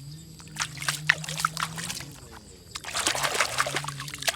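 Water trickling and sloshing with irregular small clicks as a small plastic toy is washed by hand. A low steady hum lies underneath twice.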